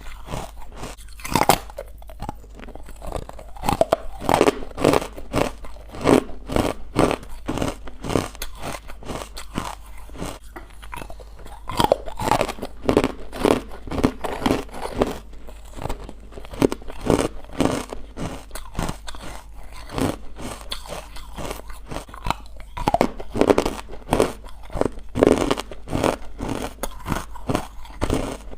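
Close-up chewing of crunchy, powdery white ice bites: rapid, dense crunching in clusters with louder bites every second or two.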